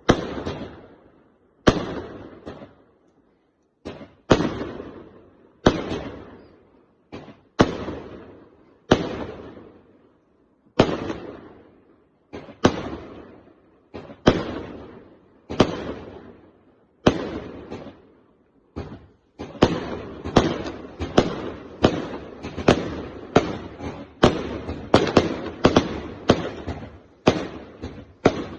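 Fireworks bursting in the air, each sharp bang followed by a fading echo, at first about one every second and a half. From about two-thirds of the way through the bangs come much faster, several a second, in a rapid barrage.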